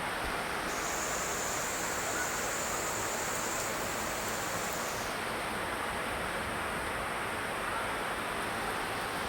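Steady rain falling, an even hiss with no breaks. A thin high whine sits on top of it and stops about five seconds in.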